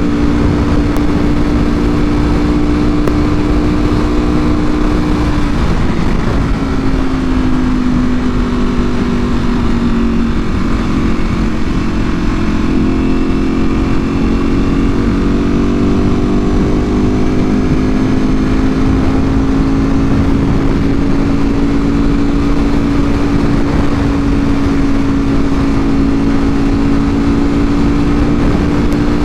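Ducati Panigale V4R's V4 engine running through an Akrapovic full exhaust at a steady cruise. About six seconds in the engine note drops as the throttle eases off, then slowly climbs back and holds steady, over a constant rushing noise.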